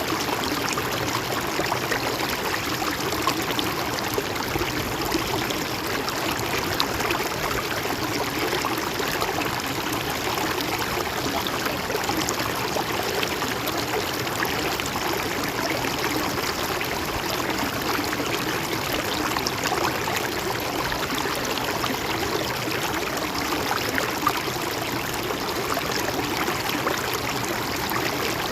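Stream water flowing and trickling steadily over stones, with small splashes and gurgles.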